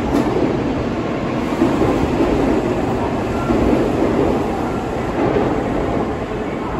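N700A Shinkansen bullet train pulling out of the station and gathering speed, its cars rolling past the platform with a steady rolling noise of wheels on rail.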